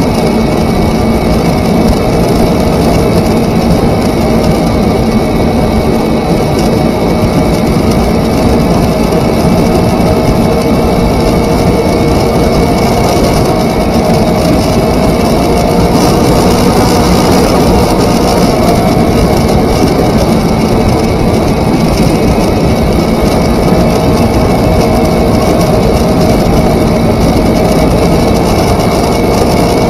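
Kawasaki Ninja parallel-twin motorcycle engine running steadily at riding speed, its note shifting slightly partway through, mixed with loud wind noise from the ride.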